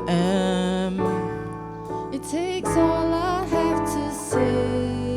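A slow, tender song: a singing voice holds long, wavering notes over sustained chords, with no words sung.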